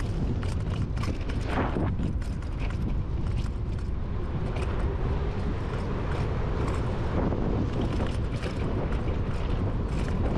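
Electric dirt bike riding over a dirt trail: a steady rumble of wind on the microphone and tyres on the ground, with frequent small rattles and clicks from the bike over rough terrain.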